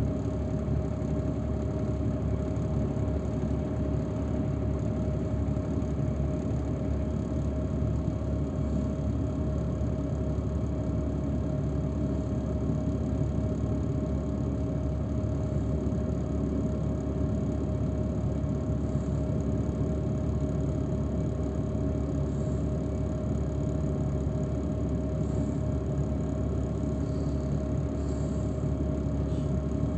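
Steady engine and road noise inside a moving transfer shuttle, an even drone with a constant hum-like tone through it.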